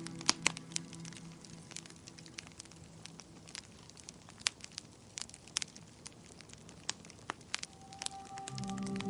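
Wood fire in a fireplace crackling: irregular sharp pops and snaps, the two loudest about a third and half a second in. Soft sustained music fades out early on and a new low music phrase comes in near the end.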